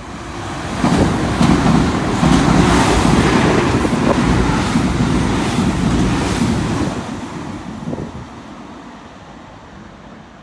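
A passenger train passing close by at speed, a loud rushing rumble that swells about a second in and fades steadily as the train draws away.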